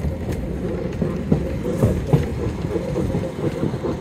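Narrow-gauge Yellow Train carriage running along the track, heard from inside the car: a steady low rumble of wheels on rail with irregular clattering and rattling knocks.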